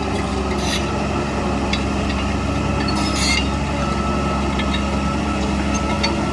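Diesel engine of heavy earthmoving machinery running steadily under load, with a few short metallic clinks.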